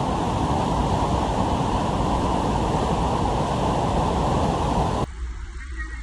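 Loud, steady rushing of white-water river rapids with wind buffeting the microphone. About five seconds in it cuts off abruptly to a much quieter background.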